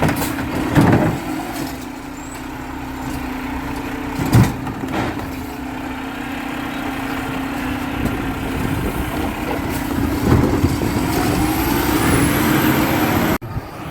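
Garbage truck engine running steadily, with two loud bangs about one and four seconds in and a rising whine near the end. The sound cuts off suddenly just before the end.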